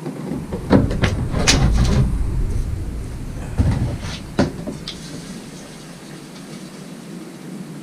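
Knocks and clatter of handling gear while a diesel heater's small fuel tank is being filled with diesel: a run of clunks with a low rumble in the first couple of seconds, then a few more sharp clunks around four seconds in.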